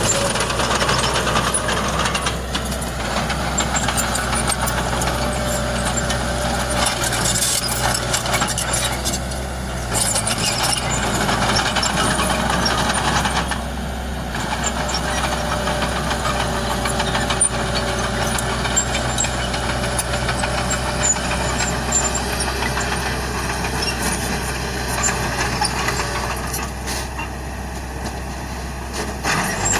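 Heavy diesel earthmoving machinery running steadily with a low engine hum, overlaid with a continuous rattling, grinding noise that rises and falls.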